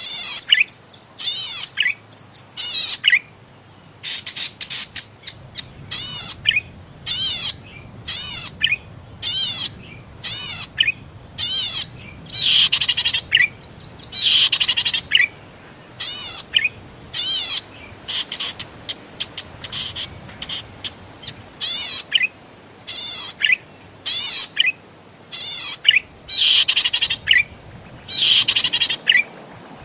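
Zitting cisticola (cici padi) singing. It repeats short, sharp, high notes about once or twice a second, broken by a few longer buzzy, trilling phrases.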